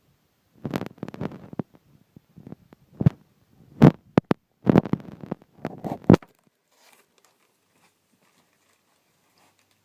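Scattered thumps, knocks and rustling from handling and moving about in a small room, with two sharp clicks in the middle, then only faint noise for the last few seconds.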